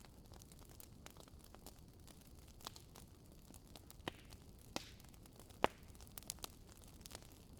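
Wood fire crackling: scattered sharp pops at irregular intervals over a faint low hiss, the loudest pop about two-thirds of the way in.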